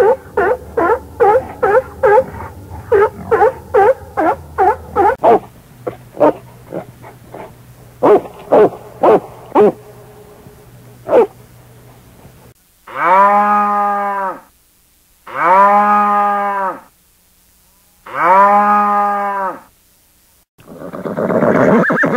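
Cow mooing: three long, even moos of about a second and a half each, a second or so apart. Before them comes a run of short, quick animal calls, several a second, and near the end a horse begins to whinny.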